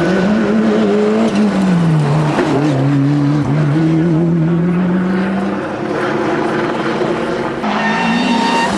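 Rally car engine running hard, its note dropping about a second and a half in and then holding fairly steady, with the sound changing near the end.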